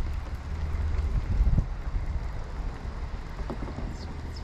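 Wind buffeting the microphone, a steady low rumble over a faint hiss of moving air and water, with one short knock about a second and a half in.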